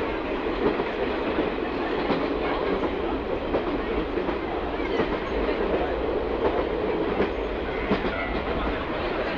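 Running sound of a JNR KiHa 46 diesel railcar under way: a steady rumble of wheels on rail, with irregular clacks as the wheels pass over rail joints.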